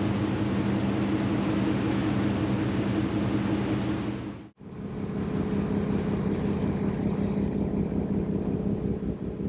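Car ferry's engine running steadily, a low hum with a hiss of wind and water over it. The sound drops out for an instant about halfway and resumes with the hum and less hiss.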